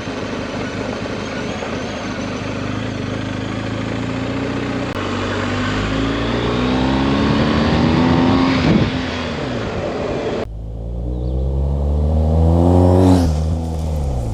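BMW GS Adventure boxer-twin motorcycle engine under way with wind rush. It revs up twice, with a drop in pitch between that sounds like a gear change. The wind hiss cuts out suddenly about ten seconds in.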